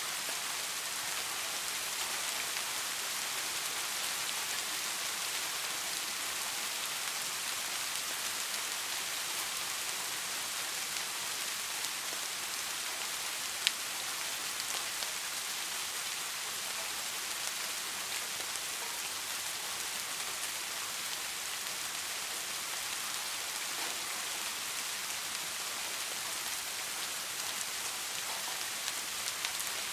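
Steady rain falling: an even hiss of many drops on a surface. About halfway through there is a single sharp tick, like one heavy drop.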